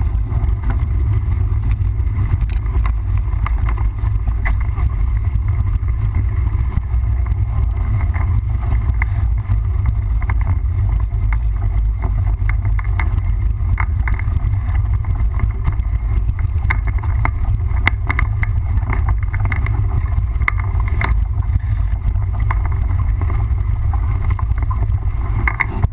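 Mountain bike ridden over a rough dirt trail: steady heavy wind rumble on the microphone, with frequent small knocks and rattles from the bike.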